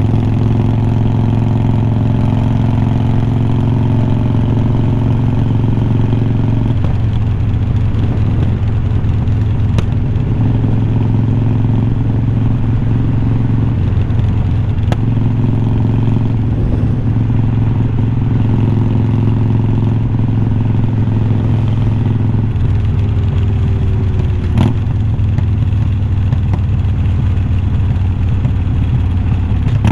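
Harley-Davidson Iron 1200 V-twin running through unbranded glass-pack slip-on mufflers while riding, heard close from the bike. The exhaust holds a steady note, then turns rougher and choppier a few times, about seven seconds in, around fifteen seconds and again near the end, with a short click about 25 seconds in.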